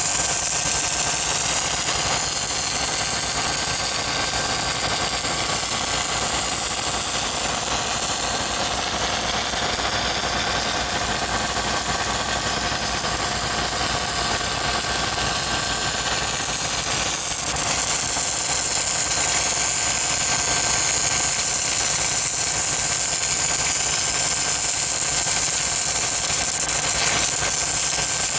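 Engine-driven welding machine running steadily, with a continuous hiss over it that gets a little louder about two-thirds of the way through.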